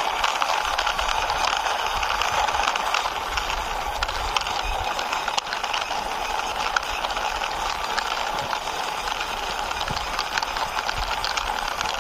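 Toy bus pushed along by hand, its small plastic wheels rolling with a steady clicking rattle.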